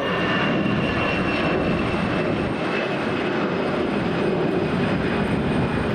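Jet airliner's engines at takeoff power as it climbs out just after liftoff: a steady loud roar with a faint high whine slowly falling in pitch.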